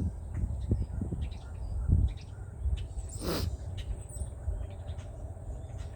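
Backyard songbirds calling: faint short chirps, and one louder call about three seconds in that falls in pitch, over a low rumble on the microphone.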